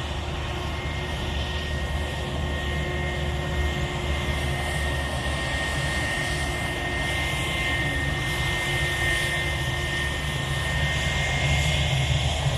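Airbus A320's twin jet engines running with a steady high whine over a low rumble, growing a little louder near the end.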